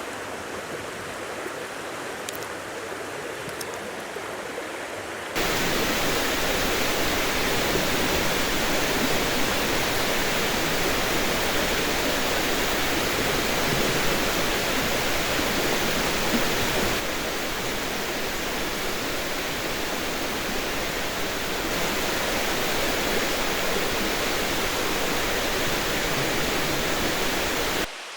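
Steady, even rushing noise with no distinct events. It jumps suddenly to a louder level about five seconds in, and shifts slightly in level twice more.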